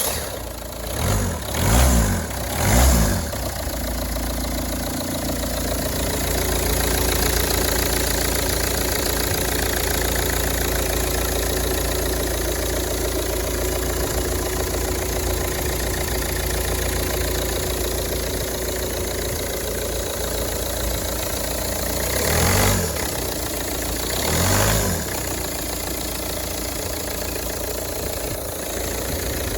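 Ford Focus 2.0 TDCi four-cylinder diesel engine running at idle, revved briefly three times in the first few seconds and twice more about three-quarters of the way through.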